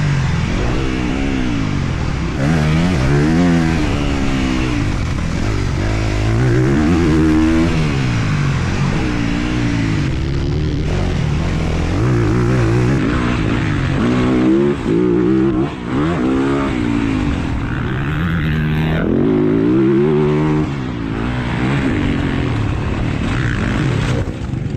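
Honda CRF250R's single-cylinder four-stroke engine being ridden hard on a motocross track, revving up and dropping back again every couple of seconds as the throttle is opened and shut. The throttle cuts briefly twice around the middle.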